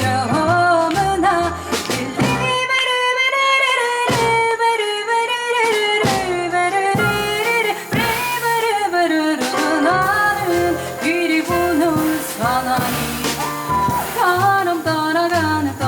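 Live jazz: a woman singing a gliding, wavering melody over piano, double bass and drums, with the bass stepping through low notes beneath her.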